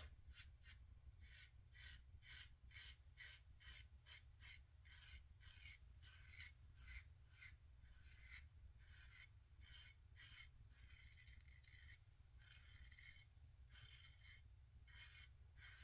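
Faint, quick scraping strokes of a 1958 Gillette TV Special double-edge safety razor with a Bic Chrome Platinum blade cutting through lathered stubble, about three short strokes a second.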